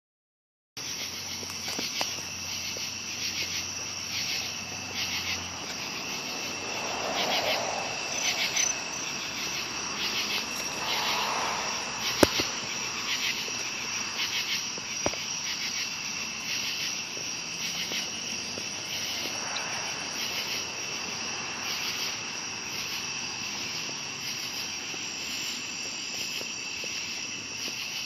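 Night chorus of crickets and cicadas trilling steadily in a high, pulsing drone, with a sharp click about twelve seconds in.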